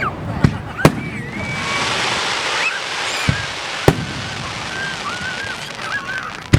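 Aerial fireworks bursting: a few sharp bangs, spaced unevenly, with a crackling fizz of sparkling stars between them.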